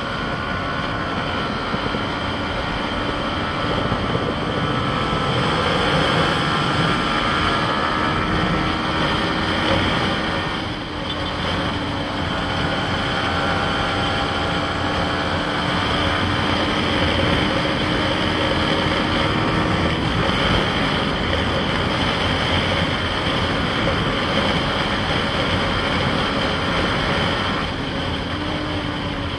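Yamaha MT-15's single-cylinder engine running steadily under way, heard from the rider's position along with wind rush. The engine note dips briefly about ten seconds in and again near the end.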